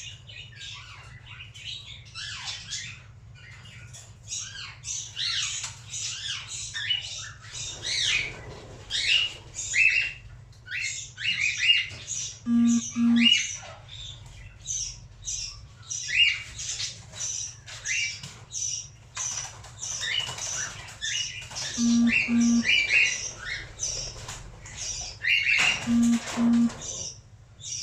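Cockatiel calling over and over in short, high chirps and squawks. Three times a pair of short low beeps sounds alongside.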